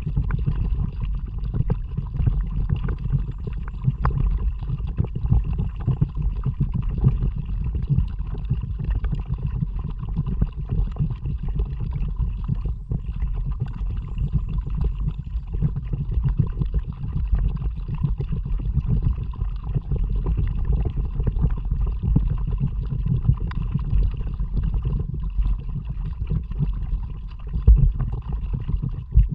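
Steady low rumble of wind and moving water on an action camera's microphone while paddling a kayak, with small irregular splashes and gurgles.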